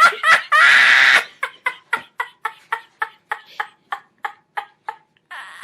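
A person's voice: a loud, harsh squeal for about a second, then a long run of short, evenly spaced high-pitched pulses, about four a second, slowly fading. This fits a fit of rhythmic, helpless laughter.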